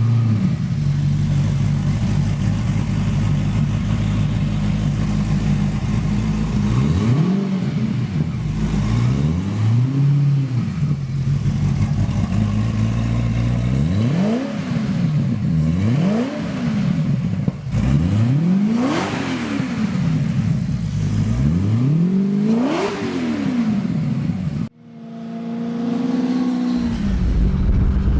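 Maserati car engine in a custom sport motorcycle idling, then revved in a series of quick throttle blips, each rising and falling in pitch, a few of them two in quick succession. Near the end the sound cuts off suddenly to a different, steadier engine sound.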